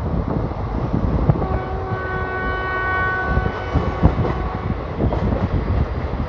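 A train running past with clattering wheels. A train horn sounds over it, starting about a second and a half in and holding one steady chord for about three seconds.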